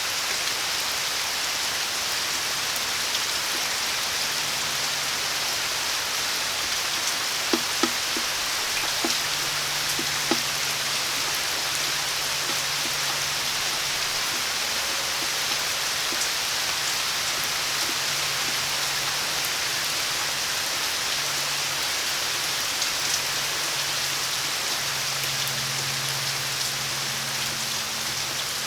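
Steady rain falling, a constant even hiss of drops on surfaces, with a few sharper drips standing out around eight and ten seconds in.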